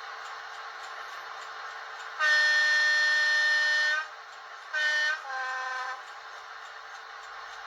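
Model Class 55 Deltic diesel's sound decoder sounding its two-tone horn: one long high note of nearly two seconds, a short high blast, then a lower note, over a steady background hiss.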